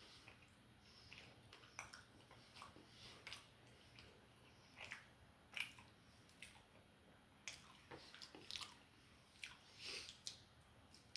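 Quiet, close-miked chewing and biting of food, heard as irregular soft wet clicks and smacks of the mouth.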